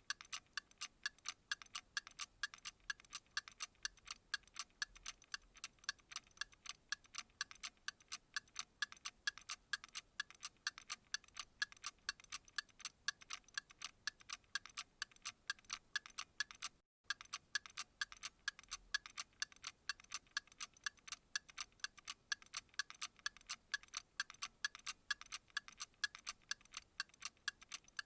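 A clock ticking steadily and quickly in an even rhythm, with one very short break about seventeen seconds in.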